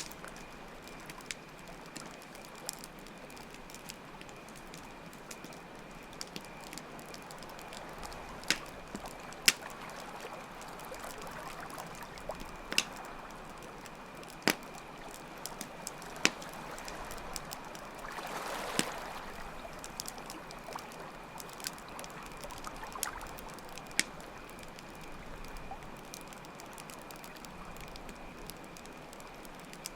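Campfire crackling with sharp pops every second or two, over steady trickling water with slow swells, and a faint constant chirping of crickets.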